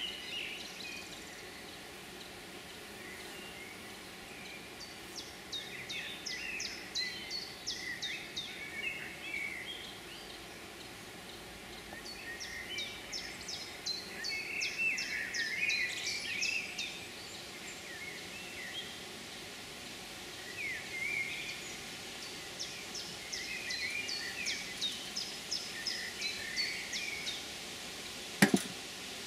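Songbird singing repeated phrases of quick high notes every few seconds over steady outdoor background noise, with one short sharp knock near the end.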